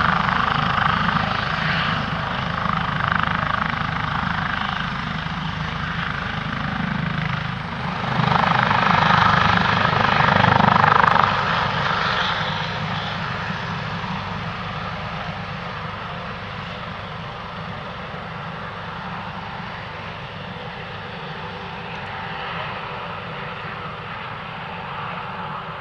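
Airbus Helicopters H145 with its twin turboshaft engines, main rotor and Fenestron tail rotor running in flight. The rotor and turbine noise swells to its loudest about ten seconds in, then fades steadily as the helicopter moves away.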